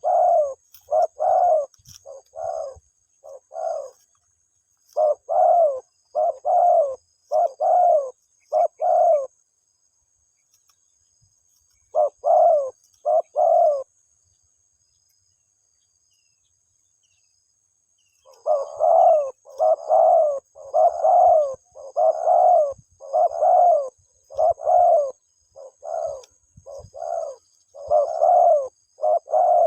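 Spotted dove cooing: runs of short, repeated coos, breaking off for a few seconds about a third of the way in and again for a longer pause around the middle, then going on in a long unbroken series. This is the call the dove uses to call its mate.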